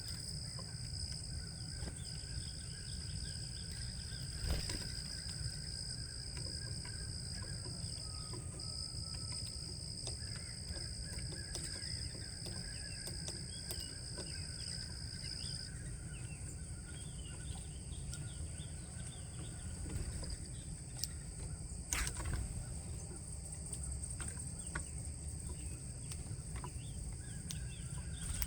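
Outdoor ambience of insects singing in a steady, unbroken high-pitched drone, with scattered faint bird chirps. A low rumble runs underneath, and there are a couple of sharp clicks.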